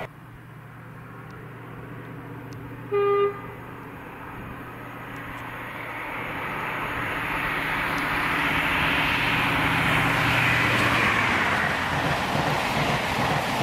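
InterCity 125 high-speed train with Class 43 diesel power cars approaching at speed. Its horn gives one short toot about three seconds in. Then the engine hum and the rush of the train build steadily louder as it comes up and passes.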